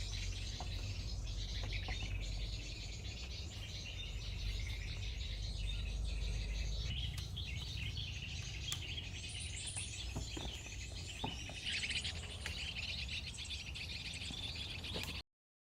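Forest birds chirping and singing in a dense chorus over a low rumble, with a few light clicks. The sound cuts off suddenly near the end.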